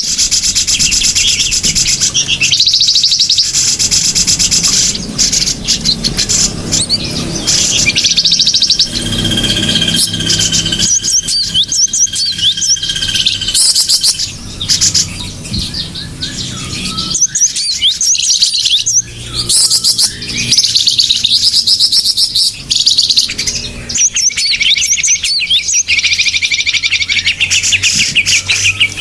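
Bird-lure recording (suara pikat) of small birds chirping and trilling together, made to draw wild small birds in. Rapid high calls repeat in dense runs, with a steady high whistle held for a few seconds about ten seconds in.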